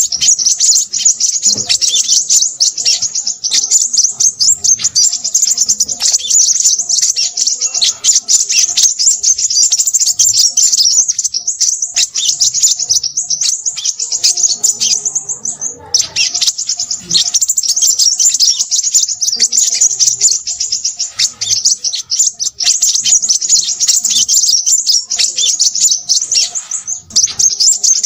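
Crimson sunbird chattering busily: a rapid, unbroken stream of high-pitched chirps and trills that breaks off briefly about halfway through.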